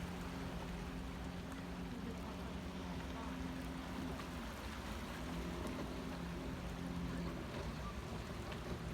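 Steady low hum with a constant rushing noise, as heard riding in a cable car cabin.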